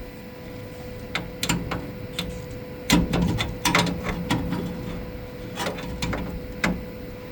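Stick-welding arc crackling with irregular sharp pops over a steady electrical hum, the pops thickest in the middle.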